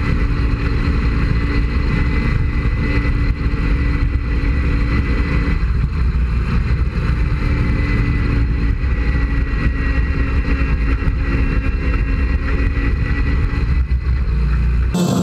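Lawn tractor's Briggs & Stratton engine running steadily, with a heavy rumble.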